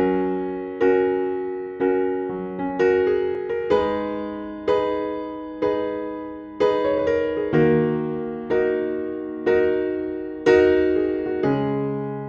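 Background music: slow piano (electric piano) chords, struck about once a second and left to ring and fade.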